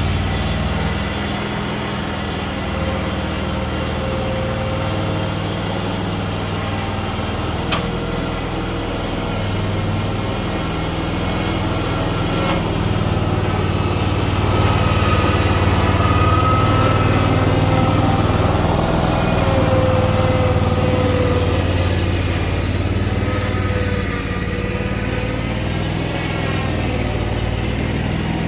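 Ferris zero-turn mower's Vanguard engine running steadily just after being started, with one brief click about eight seconds in.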